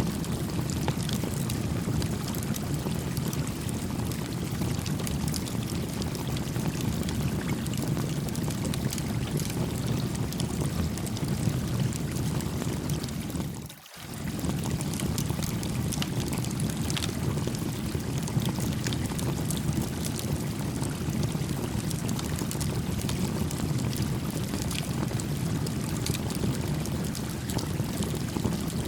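A gently flowing stream, a steady rush of water, with a small campfire's crackles popping here and there over it. About halfway through the whole sound dips away for a moment and swells straight back.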